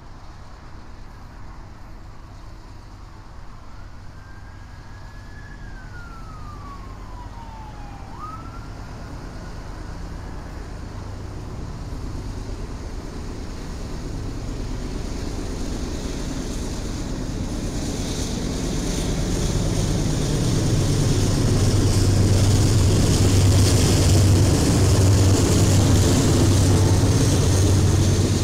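A train approaching, its locomotive engine drone and rumble growing steadily louder until it is loud and steady about twenty seconds in. Earlier, a faint siren wails, rising and then falling.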